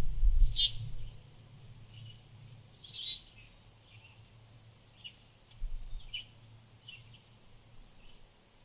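Small garden birds calling: a loud downward-sweeping call about half a second in, another call around three seconds, then short chirps. Under them runs a steady high pip repeating about three times a second. A low rumble fades out in the first second.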